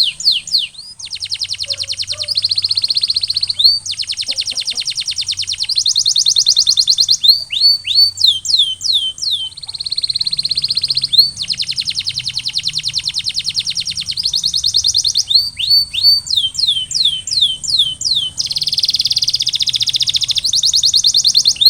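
Male domestic canary singing a continuous song. Long fast trills and rolls alternate with runs of falling whistled notes, each phrase lasting a second or two.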